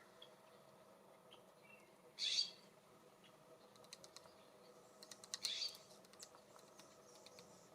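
Two short, harsh, raspy bird calls a few seconds apart, with a scatter of light clicks and taps in between, typical of birds pecking and landing at a feeder.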